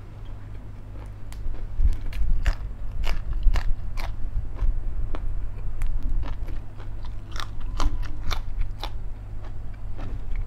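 A man chewing a mouthful of food close to the microphone, with many irregular crunchy clicks, busiest from about two seconds in until near the end.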